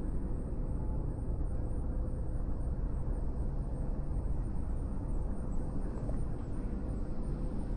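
Steady low background rumble, unchanging, with a faint steady hum above it.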